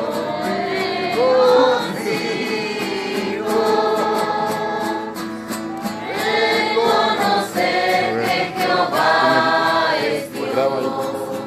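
A group of young people singing a Spanish-language worship chorus together, with held notes gliding from one pitch to the next and a brief breath near the end.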